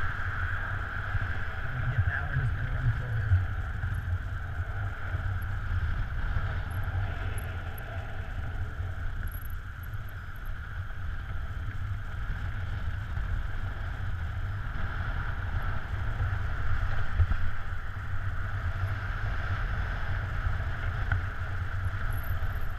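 Steady wind rushing past during a paraglider flight, with a low buffeting rumble of wind on the microphone and a steady hiss of airflow.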